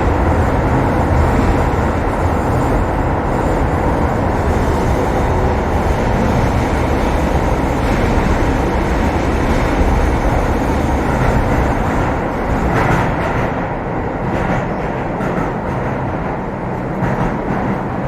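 Keio 7000 series train running, heard from inside the passenger car: a steady rumble of wheels on rail. It grows somewhat quieter over the last few seconds.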